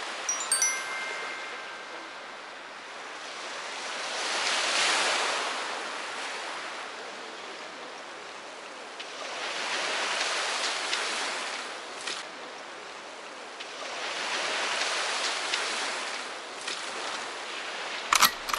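Sea waves breaking on a pebble beach, the surf swelling and easing about every five seconds. A couple of sharp knocks sound near the end.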